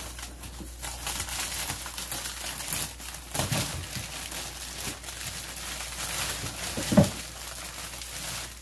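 Crinkling and rustling of plastic packaging as grapes are handled and taken out of a refrigerator, with a few soft knocks; a dull knock about seven seconds in is the loudest sound.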